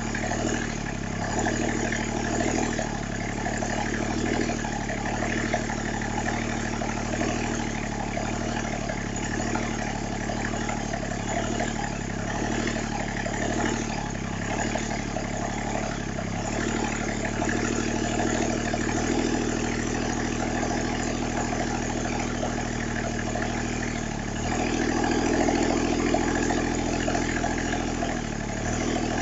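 Briggs & Stratton small diesel lawn-mower engine running steadily after warming up, getting a little louder for a few seconds about 25 seconds in.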